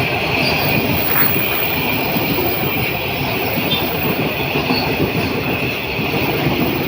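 Train passing over a level crossing, its carriage wheels running steadily and loudly on the rails.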